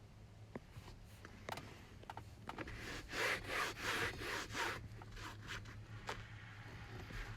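Scrubbing strokes on a truck seat's upholstery to work out a stain: a few scattered scrapes, then a run of rubbing strokes about three a second from around three seconds in, easing off but continuing.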